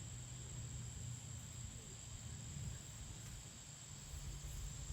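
Faint background noise: a steady high-pitched whine over a low rumble.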